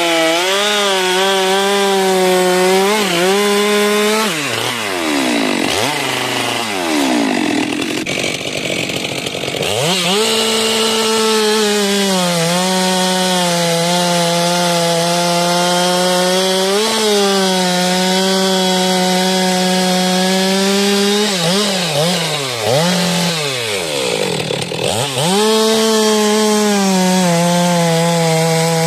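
Stihl MS 462 two-stroke chainsaw running at high revs, cutting through tree wood. Twice its pitch falls away and climbs back up, once a few seconds in and again a little past the twenty-second mark, as the throttle is eased off and reopened.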